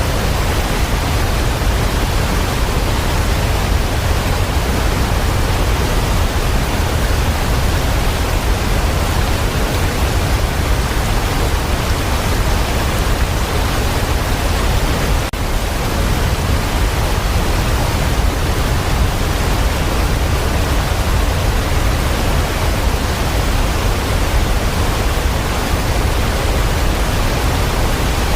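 Steady, even rushing noise of heavy rain, strongest in the low end, with no single drops or other sounds standing out.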